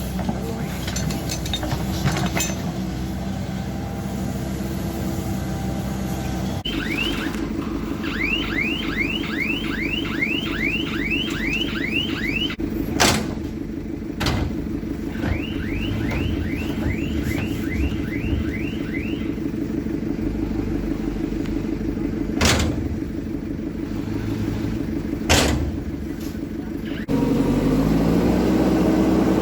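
Diesel engines of a backhoe loader and a wheel loader running under work. Two runs of short, evenly repeated falling chirps come in the middle, along with four sharp knocks. Near the end the sound jumps louder, with an engine note rising.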